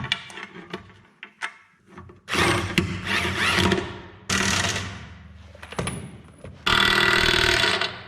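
Impact wrench run in three bursts of one to two seconds each, the last the longest, with clicks and knocks of metal parts between them: bolts being driven on an excavator's track rollers.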